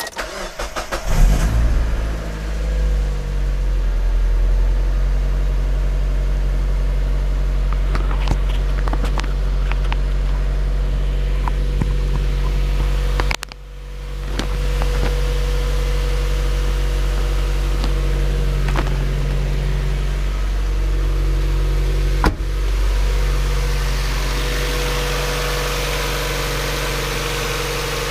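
Mazda MX-5 Miata's four-cylinder engine cold-starting: brief cranking, it catches about a second in with a surge of revs, then settles into a steady fast cold idle. About halfway through the sound drops out abruptly and swells back, and a few sharp clicks are scattered through.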